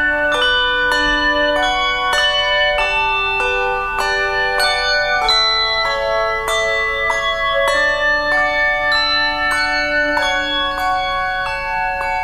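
Handbell choir playing a piece: struck bell notes and chords ring and overlap, with a new stroke about twice a second.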